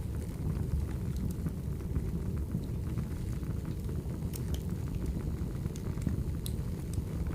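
Firewood burning: a steady low rumble with scattered sharp crackles and pops.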